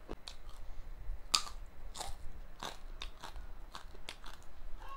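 Close-miked crunching and chewing of a mouthful of crunchy, spicy kurkure chatpate: a series of irregular sharp crunches, the loudest about a second and a half in.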